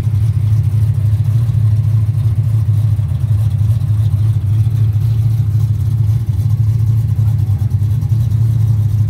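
Modified car engine idling steadily with a lumpy, uneven beat. The car has a Powerglide automatic transmission.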